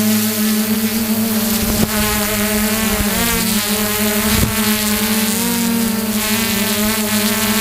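Drone's motors and propellers running in flight: a steady buzzing hum that wavers briefly in pitch twice as the motor speeds adjust, with wind hiss on the microphone.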